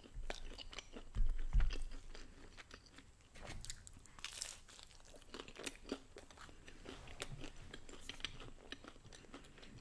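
Close-miked chewing of a mouthful of food, with many small crisp crunches throughout. Two low thumps about a second and a half in are the loudest sounds.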